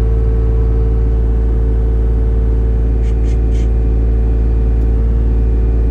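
Engine idling, a steady low rumble with a constant hum that does not change.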